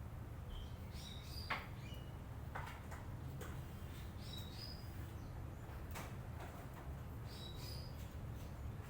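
Lovebird chattering: scattered short, high chirps with a few sharp clicks, over a low steady hum.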